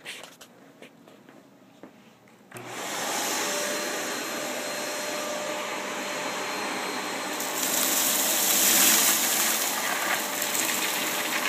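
A few light clicks, then a Shark Rotator vacuum cleaner switches on about two and a half seconds in and runs steadily with its brush rollers off, sucking up crushed cereal. It gets louder and hissier about eight seconds in.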